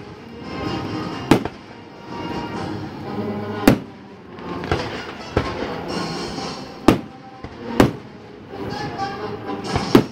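Aerial firework shells bursting overhead: about five sharp bangs a second or more apart, with a few weaker cracks between them.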